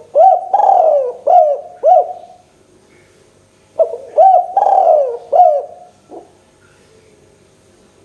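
Spotted dove (tekukur) cooing: two phrases of about four low, arching coos each, a couple of seconds apart, then a single short note.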